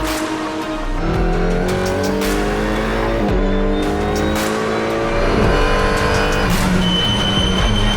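Racing engine accelerating hard, its pitch climbing steadily and dropping back sharply three times before climbing again. Background music plays underneath.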